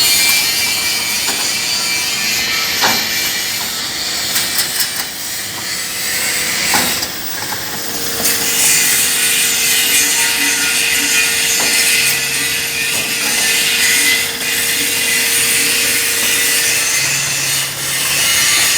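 Electric meat band saw running: a steady sawing hiss with a constant hum underneath, and a couple of sharp knocks about 3 and 7 seconds in.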